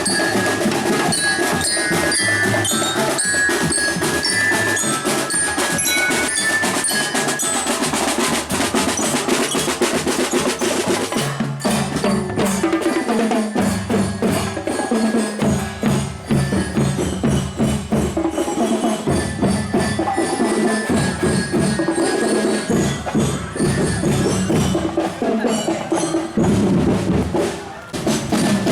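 A school drum band playing: marching drums and other percussion keep a dense rhythm under a melody on bell-like mallet instruments. After about ten seconds the high melody thins out and the drums come forward.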